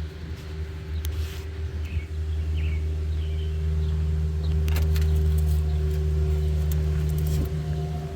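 A steady low engine hum that is loudest about halfway through and drops near the end, with a few light metallic clinks.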